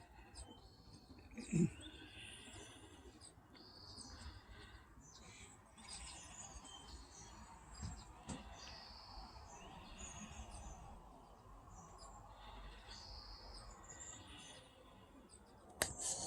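Faint birds chirping and calling over and over, with a brief low thump about one and a half seconds in.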